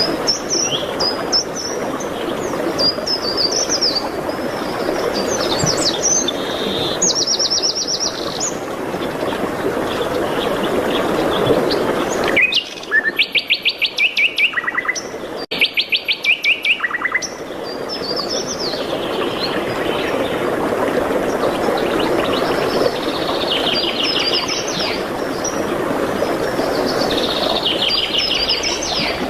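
Songbirds singing and chirping over a steady rushing background noise. About halfway through, the background drops away and a loud bird trill of fast, evenly repeated notes sounds for several seconds before the rushing noise returns.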